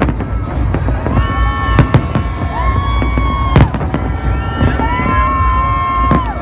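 New Year's fireworks show: aerial shells bursting with sharp bangs at irregular intervals over a constant low rumble. Several long held pitched tones, each gliding up at the start and down at the end, sound over the bangs from about a second in.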